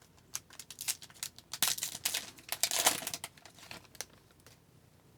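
Wrapper of an Upper Deck hockey card pack crinkling and tearing as it is opened, a quick run of crackles that stops about four seconds in.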